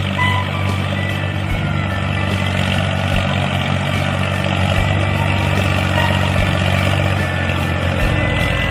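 A homemade mini tractor's motor running steadily, with an even low hum and a dense mechanical rattle above it.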